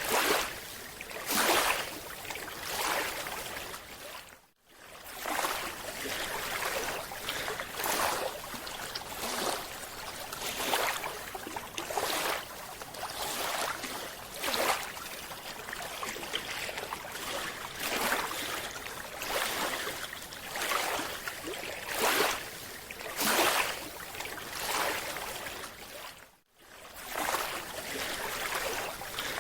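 Underwater water noise around the camera, a steady hiss that surges about every second and a half, with two brief dropouts to silence.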